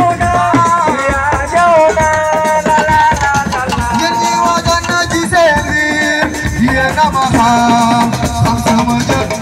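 Live assiko band music: a singing voice carries a wavering melody over dense, fast hand-drum and rattle percussion.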